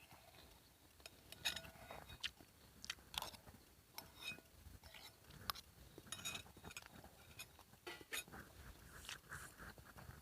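A person chewing and crunching food close to the microphone, with scattered small clicks and crackles.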